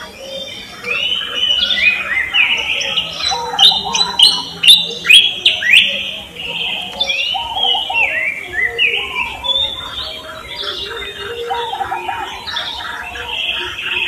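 A chorus of several birds chirping and calling over one another. A run of loud, sharp, falling calls stands out about four to six seconds in.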